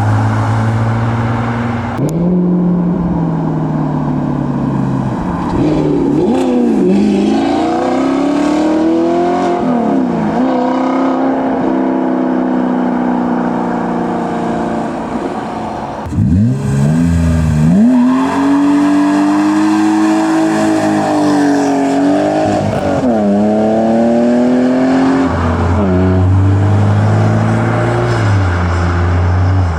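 Modified cars' engines accelerating hard away, the pitch climbing and then dropping with each gear change, several times over. A lower, steady engine note idles at the start and again near the end.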